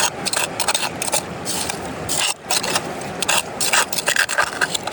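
Irregular scraping and rattling of gravel and rock, a quick string of short strokes, over the steady rush of the river.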